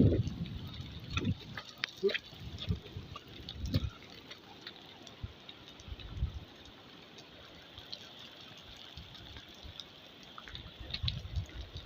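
Rainwater dripping and trickling, with scattered sharp drops over a faint steady hiss and a few low thumps in the first few seconds.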